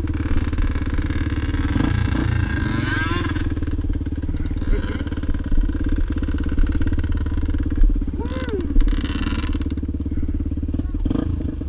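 Motorcycle engine running steadily, with a rapid, even firing pulse.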